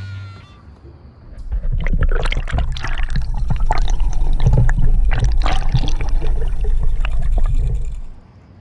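Water splashing and gurgling, with many short irregular splashes and knocks over a low rumble, from about a second in until it stops shortly before the end.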